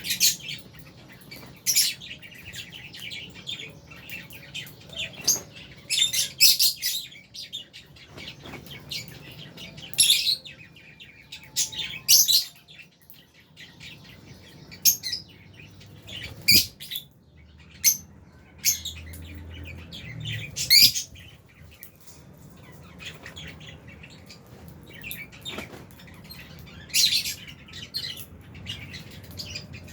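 Lovebirds, albino and Fisher's lovebirds, chirping in an aviary: many short, sharp, high-pitched calls coming irregularly, some of them loud and shrill.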